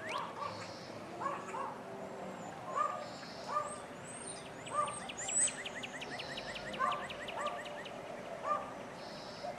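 Birds calling: irregular short calls throughout, with a quick run of chirps and some high whistles in the middle.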